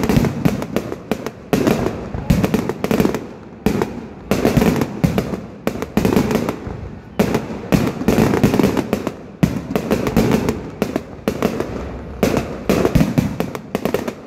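Aerial firework shells bursting in a dense barrage, several sharp bangs a second with no gaps, the finale (bouquet final) of the display.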